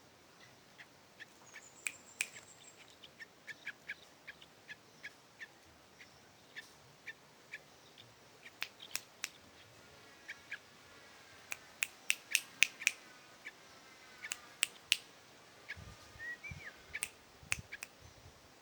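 Yellow-vented bulbuls making many short, sharp clicks and chips at irregular intervals, busiest around the middle, with a couple of faint thin chirps.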